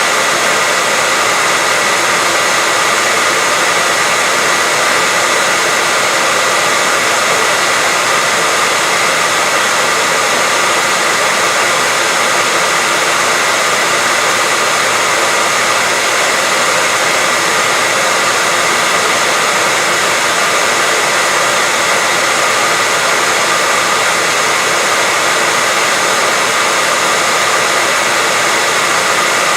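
Steady white noise: an even, unchanging hiss with most of its energy in the upper range and little bass.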